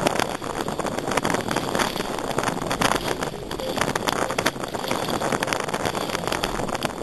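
Wind buffeting the microphone: a dense rushing noise crackling with constant small gusts.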